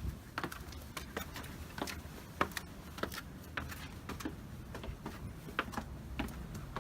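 Footsteps at a steady walking pace, sharp regular steps on a hard surface.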